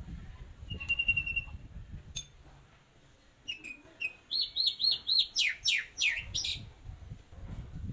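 A songbird singing: a short steady trill about a second in, then, in the second half, a quick run of repeated whistled notes and several falling slurs.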